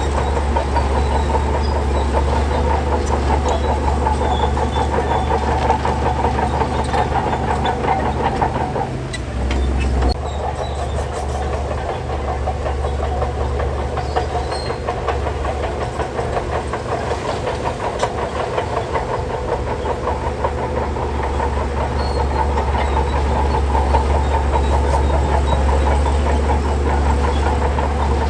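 Shantui DH17C3 crawler bulldozer's diesel engine running steadily, with a constant clanking rattle of its steel tracks; the engine dips briefly about nine seconds in.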